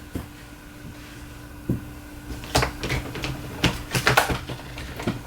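Handling noises: a scattering of irregular clicks and knocks, thickest in the middle, over a steady low hum.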